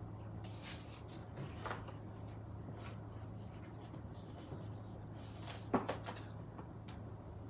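Craft supplies being handled and shuffled, with light rustling and a few knocks, the sharpest about six seconds in, over a steady low hum.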